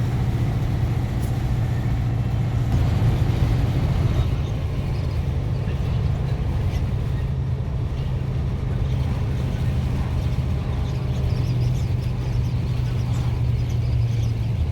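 Scania 141's 14-litre V8 turbo diesel running steadily under way, heard from inside the cab as a deep, even hum that swells briefly about three seconds in.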